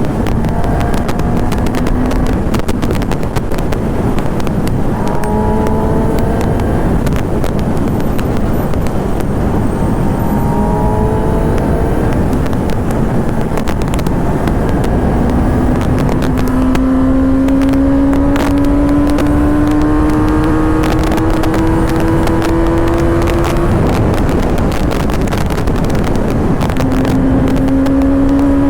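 Superbike's inline-four engine accelerating hard through the gears under heavy wind rush, its pitch climbing and dropping back at each upshift, then one long, slowly rising pull in a high gear.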